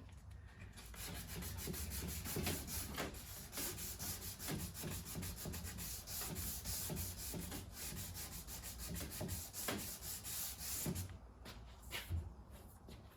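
Sandpaper rubbed back and forth by hand over oak trim in repeated rasping strokes, starting about a second in and stopping a couple of seconds before the end, followed by a few light taps.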